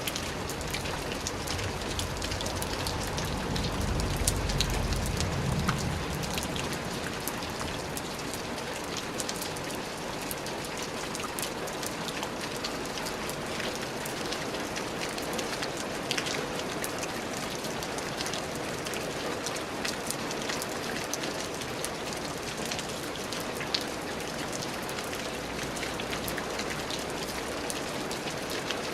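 Steady rain falling on a surface, an even hiss dotted with the ticks of individual drops. A low rumble swells for a few seconds near the start.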